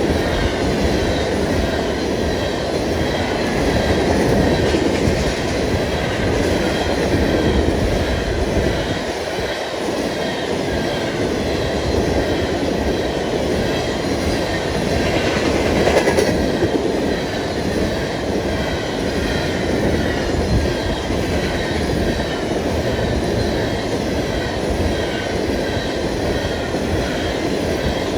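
Long freight train of empty ethanol tank cars rolling past steadily, steel wheels rumbling and clacking over the rails with a faint wheel squeal, swelling briefly about halfway through.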